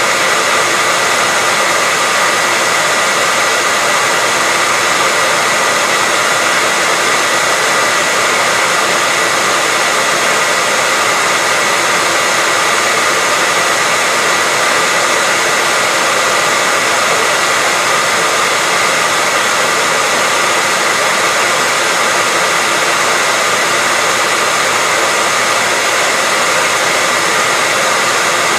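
Hair dryer running steadily: a constant airy rush of blown air with a thin, steady whine riding on it, unchanging throughout.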